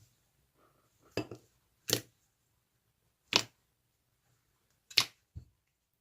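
Slime being pressed and squished, giving four sharp clicking pops about a second and a half apart and a softer knock near the end.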